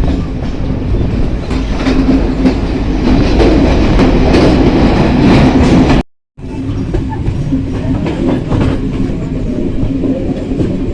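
Train running on the line, its wheels clacking over the rail joints above a steady low drone. The sound cuts out abruptly for a moment about six seconds in, then carries on.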